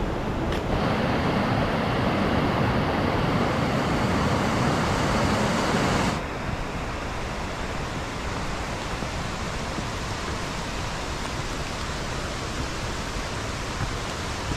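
Steady rush of a mountain valley stream. The level steps up about a second in and drops abruptly about six seconds in.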